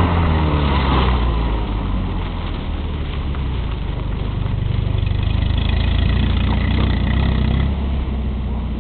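Fiat 126p's small two-cylinder engine revving hard as the car is slid around. The revs fall away just after the start, hold high and steady through the middle, and drop near the end.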